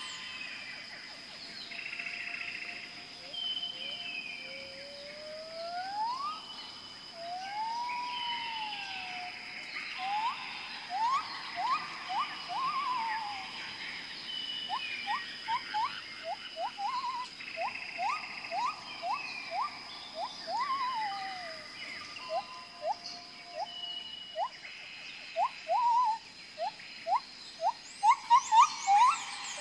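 Several birds calling: whistled notes that rise and fall, then, from about ten seconds in, runs of quick upward-sweeping chirps that grow louder near the end, over a steady high-pitched whine.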